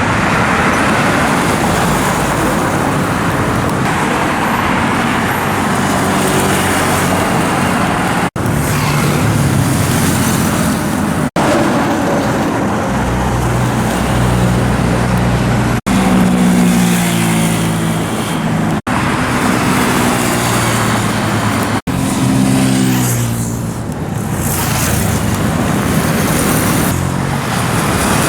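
Street traffic with motorcycles passing and pulling away, their engine notes rising in pitch several times. The sound cuts out for an instant five times, about every three seconds.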